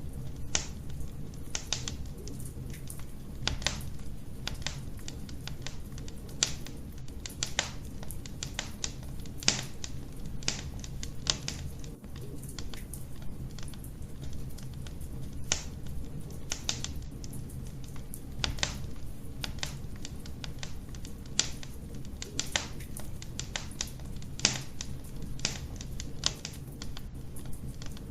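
Wood fire crackling in a fireplace: irregular sharp pops and snaps, a few every second or two, over a low steady rumble of the flames.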